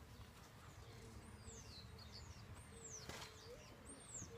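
A small bird chirping faintly: three high calls that sweep up and fall, about a second and a half apart. A faint wavering lower tone runs under them, and a single soft click comes about three seconds in.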